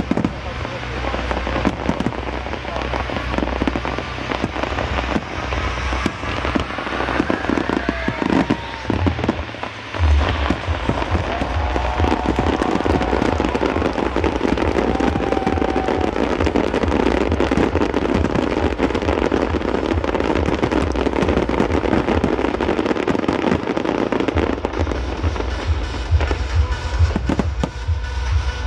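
Aerial fireworks display: a dense, continuous run of shell bursts, bangs and crackles with a low rumble, over accompanying music.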